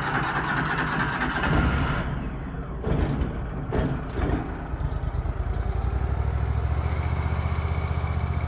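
Wallenstein BXMT 4238 chipper shredder's gas engine running. A loud rushing noise cuts off about two seconds in, a few knocks follow, and then the engine runs steadily with an even low pulse.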